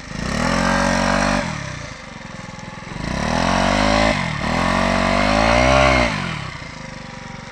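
Honda CRF450 dirt bike's single-cylinder four-stroke engine revved hard in bursts while the bike is bogged down in mud, the pitch climbing with each burst; it drops back to idle about six seconds in.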